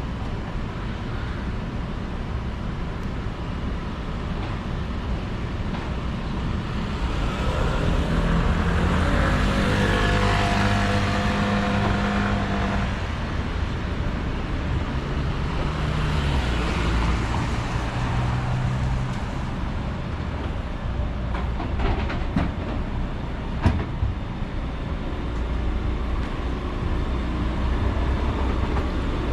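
Street traffic with motor vehicles driving past. The loudest is an engine that swells and passes about ten seconds in, another passes a few seconds later, and a few sharp clicks come near the end.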